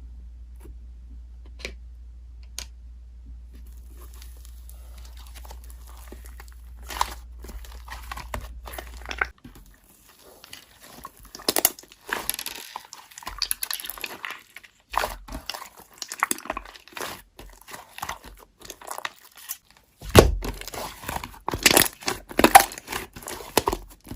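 Slime being squished and worked by hand, giving irregular crackles and pops that grow louder and denser near the end. A steady low hum sits under the first part and stops about nine seconds in.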